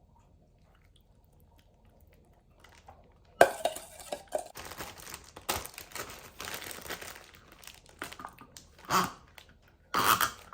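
Plastic food-storage bag crinkling and rustling as it is handled with marinade and cut chicken thighs inside. It starts suddenly after a few quiet seconds, with louder rustles near the end.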